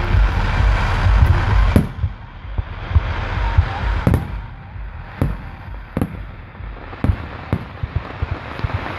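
Fireworks display: aerial shells bursting in a string of sharp bangs over a steady low rumble, with stretches of hissing crackle between them.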